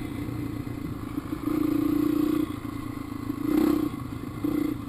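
Dirt bike engine running under load, opened up in three bursts of throttle: one of about a second, then two short ones near the end. The rider takes the engine's sound for its valves going bad.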